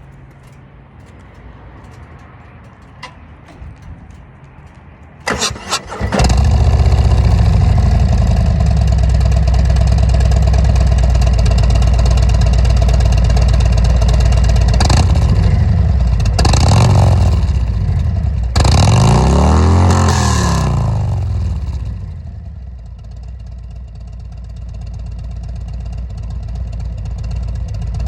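V-twin motorcycle with Rinehart 4.5-inch DBX45 exhaust cranking over and catching about five seconds in, then idling loudly. Three throttle blips follow, the last one the longest, and the engine then settles to a quieter idle.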